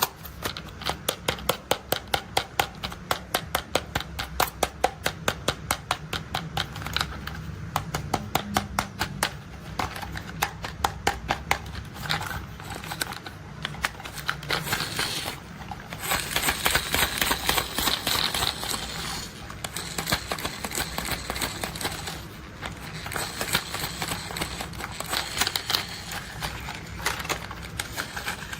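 Rapid plastic clicking from a toy construction vehicle's mechanism, several clicks a second, giving way about halfway through to a denser, scraping rattle.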